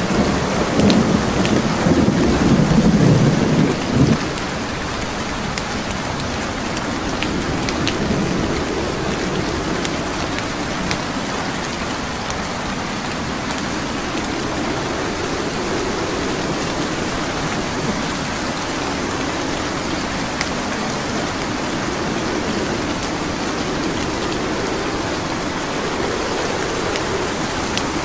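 Steady rain with a low rumble of thunder in the first few seconds that cuts off suddenly about four seconds in, and scattered small crackles and pops from burning wood logs.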